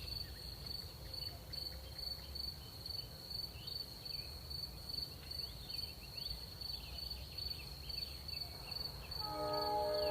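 Crickets chirping in a steady high pulsed trill, about two pulses a second, over a low steady rumble. About a second before the end, a sustained music chord comes in.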